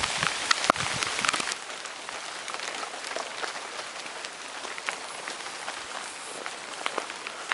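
Rain falling, with many single drops ticking close by. It is louder for about the first second and a half, then settles to a softer, steady rainfall.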